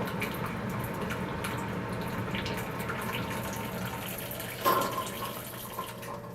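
Keurig K-2550 coffee maker brewing on its strong setting, hot water streaming into a mug over a steady low pump hum. A short louder burst about two-thirds of the way in, then the flow quietens as the brew finishes.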